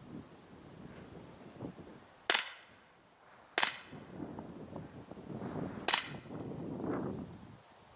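Daisy Winchester M11 CO2 blowback BB pistol fired three times, each a sharp crack with the slide cycling, a little over a second apart and then about two seconds apart.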